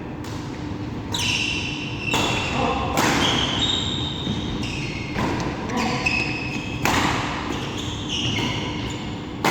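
Badminton rally: sharp racket strikes on the shuttlecock roughly once a second, with short high squeaks, likely players' shoes on the court floor, after several of them, in a reverberant hall.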